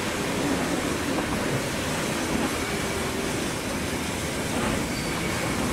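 A moving train: a steady rushing noise of wheels on rail and passing air, with no clear rhythm.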